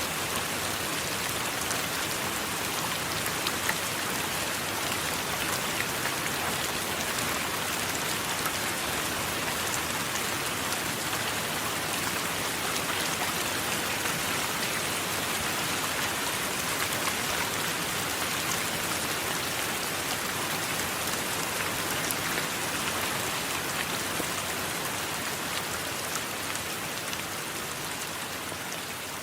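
Steady heavy rain falling, a dense hiss with individual drops ticking through it, easing slightly near the end.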